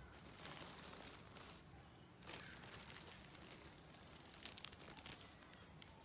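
Faint rustling and crinkling of things being handled, in a few swishes with a cluster of light ticks a little past the middle.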